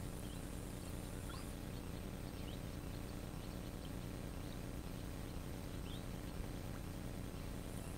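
Scattered faint, short chirps of small birds in riverside bushes over a steady low background rumble.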